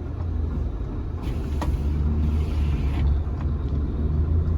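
Semi-truck's diesel engine running steadily with a low hum, with a few faint clicks over it.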